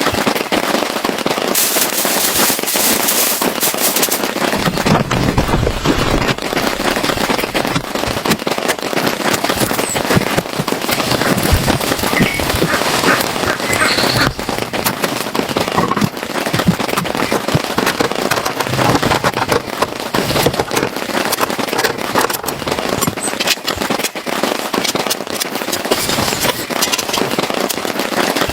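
Heavy rain falling: a dense, steady patter of countless drops.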